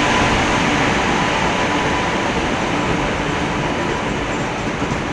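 Passenger express train arriving at a station: a WAP-7 electric locomotive passes close by, then its coaches roll past, a steady noise of wheels on rail with a faint steady hum under it, slowly getting quieter.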